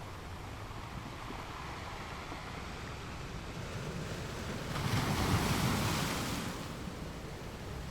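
Ocean surf, waves washing in. The noise builds and one wave breaks loudest about five seconds in, then ebbs away.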